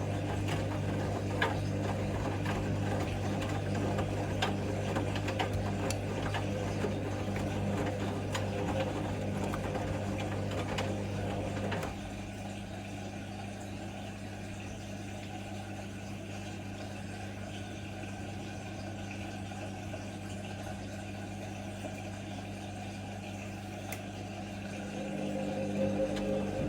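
Hoover Link washing machine in its intermediate spin: the motor and drum run with a steady low hum that drops to a quieter hum about halfway through, then builds up again near the end.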